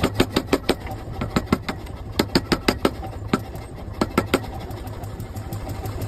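Hammer blows on a red-hot iron axe blank being forge-welded to its steel insert, sharp metallic strikes several a second in the first half, then a few more around the middle, over a steady low machine hum.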